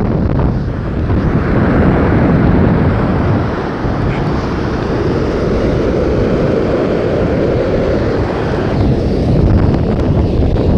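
Strong, gusty wind blasting across the microphone, rising and falling in loudness, with the surf of a stormy sea beneath it.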